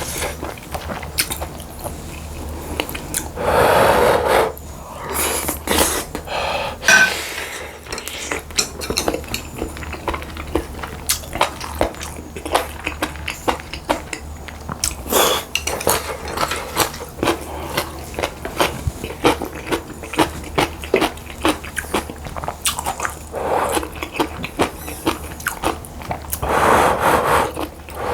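Close-miked eating sounds: steady chewing, with many small clicks of a spoon or chopsticks against a bowl and louder stretches about four seconds in and near the end.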